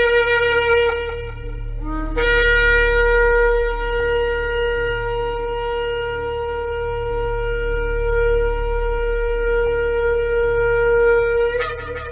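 Shofar blown in long held blasts. A note ends about two seconds in, and a new note follows straight away and holds steady for about nine seconds before breaking upward in pitch at its end. A low steady hum sits underneath.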